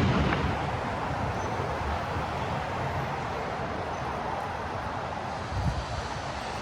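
City street traffic noise: a steady wash of passing vehicles, with a heavier low rumble at the start as a vehicle goes by.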